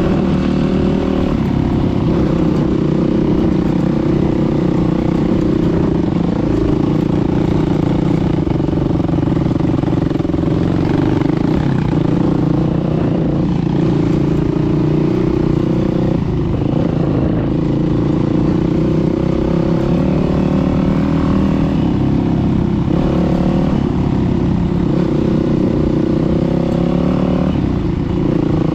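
Dirt bike engine running under load while riding, loud and steady, its pitch stepping up and down every few seconds with throttle and gear changes.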